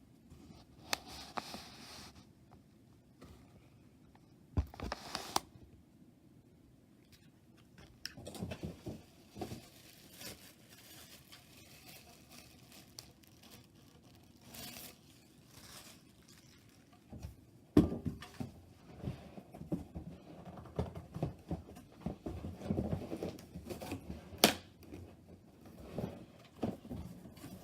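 Packaging being handled and torn open: tape or cardboard tearing and wrapping rustling in bouts, broken by scattered sharp knocks and clicks, two of them louder than the rest.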